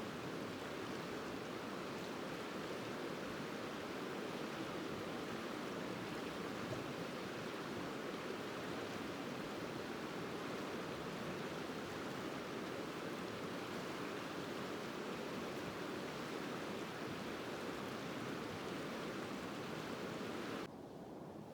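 Steady rush of a flowing river or stream, an even wash of water noise that cuts off suddenly near the end.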